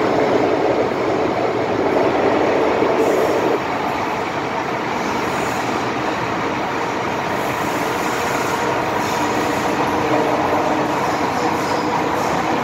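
MTR M-Train metro train running between stations, heard from onboard: steady rumbling running noise with a faint hum that drops slightly about three and a half seconds in and comes back near the end.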